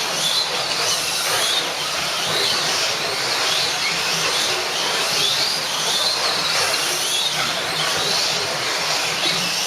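Several Can-Am slot cars racing on a slot track: small electric motors whine and rise in pitch as the cars accelerate, again every second or two, over a steady hiss of tyres and guides running in the track.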